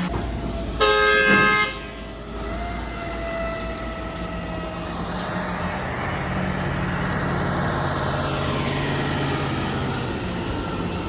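A vehicle horn sounds once, about a second in, for under a second, then a heavy vehicle's engine runs steadily.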